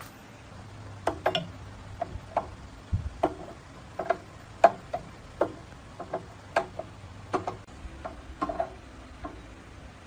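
Irregular light knocks and clicks, about two a second, some with a short ring, over a faint low hum.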